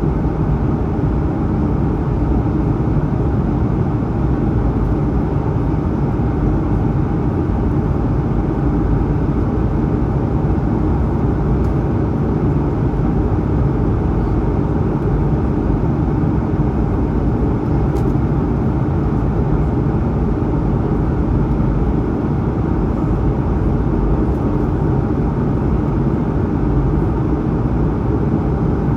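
Steady cabin noise of an Airbus A220-100 in its climb: a constant rumble of the Pratt & Whitney PW1500G geared turbofans and rushing air, heard from inside the cabin, with a faint steady hum.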